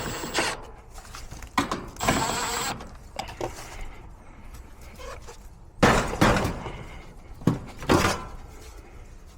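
Knocks, thuds and clatter of tools and metal parts being handled during HVAC repair work, with a short hissing burst about two seconds in and the loudest knocks near six and eight seconds in.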